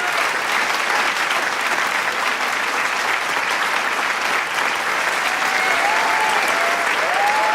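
Large crowd applauding with dense, steady clapping. Scattered shouts and whoops rise over it near the end.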